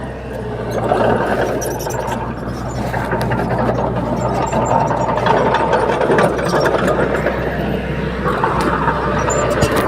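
Komatsu D30P bulldozer's diesel engine running steadily, with scattered clicks and knocks through it.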